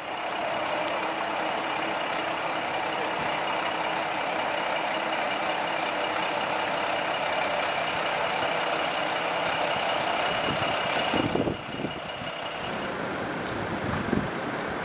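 Diesel railcar engine running steadily, with a steady high whine over it; the sound drops about eleven seconds in.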